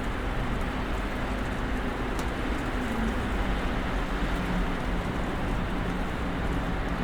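Steady ambience of a snowstorm outside an apartment building: an even wash of noise with a low rumble underneath and a faint steady hum.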